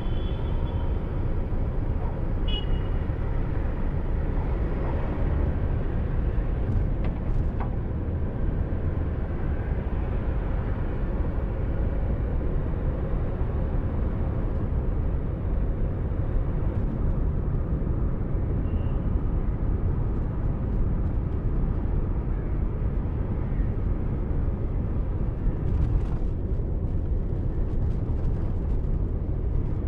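Car driving along: a steady low rumble of road and engine noise, picked up by a dashcam. A couple of short high beeps sound in the first few seconds.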